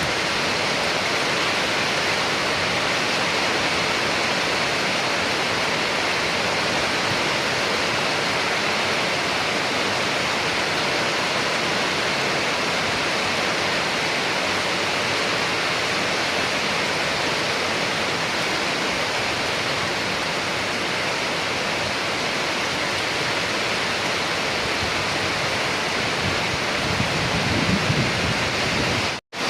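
Steady, dense rain. Near the end comes a brief low rumble, then the sound cuts out for a split second and comes straight back.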